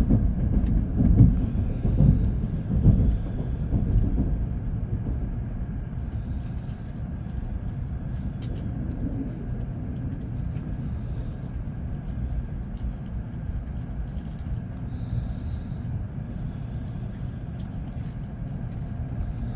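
Steady low rumble of a moving train heard from inside the carriage, with a few louder surges in the first few seconds.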